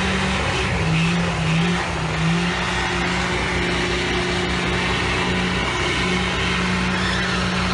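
Pickup truck engine revving hard and held at high revs during donut maneuvers in the street, the pitch dipping briefly a couple of times early on.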